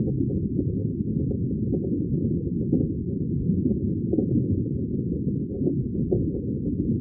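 Underwater bubbling water ambience: a steady, muffled wash of bubbles and water noise, all of it low in pitch with nothing high.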